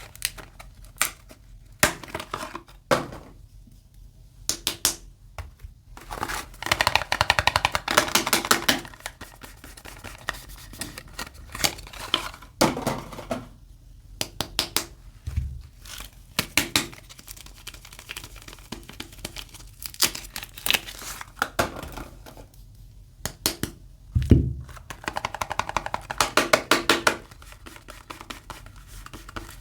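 Hands unwrapping soap bars: wrapping and packaging crinkling and tearing in bursts, with scattered crisp clicks and crackles. Two dull thumps stand out, the louder one a little past two-thirds of the way through.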